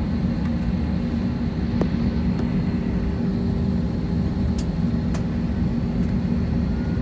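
Steady drone of the Airbus A321-231's IAE V2500 turbofan engines, heard from inside the passenger cabin, with a few faint clicks from a phone camera shutter.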